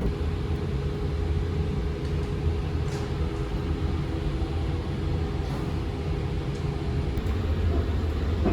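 Sunrise Izumo sleeper train running, a steady low rumble with a steady hum over it that stops near the end.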